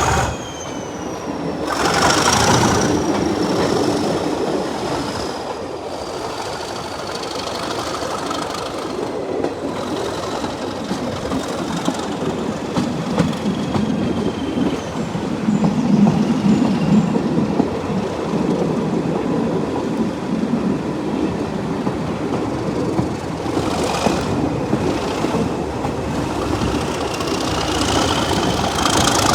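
Diesel-hauled heritage train behind Class 37 locomotive 37250 on the move, a steady running rumble of the train on the rails. Thin high whines glide in pitch over it: one slowly falling through the first half, another rising near the end.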